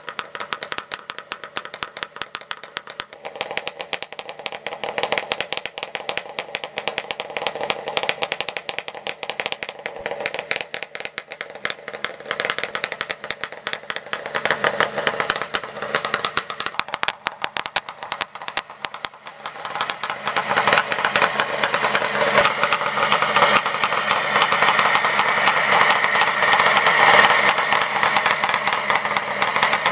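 Kawasaki KH250 bored out to 400cc, an air-cooled two-stroke triple, idling through freshly fitted Zenshin Engineering expansion chambers on one of its first runs after the swap and re-jetting, with a rapid rattling beat. About twenty seconds in the exhaust note grows louder and fuller.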